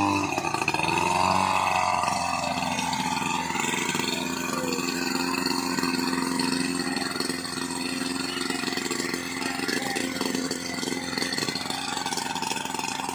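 Portable fire pump's engine running steadily.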